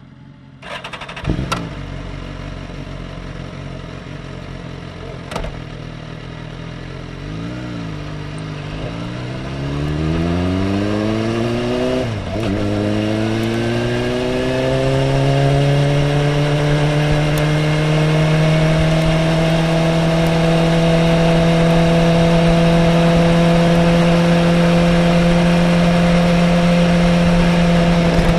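Sport motorcycle engine running low, then revving up as the bike pulls away, with a brief break in the climb about twelve seconds in at a gear change. It then rises further and holds a steady high pitch at speed. There are a couple of sharp knocks in the first few seconds.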